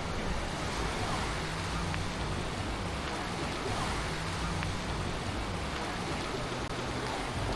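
Black Sea surf washing steadily onto the beach.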